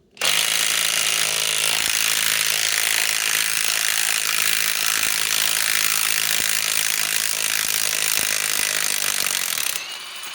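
Bosch GDS18V-330C cordless mid-torque impact wrench on speed 3, hammering steadily for about ten seconds as it backs a long lag screw out of wood, then stopping near the end. The wrench succeeds in removing the lag.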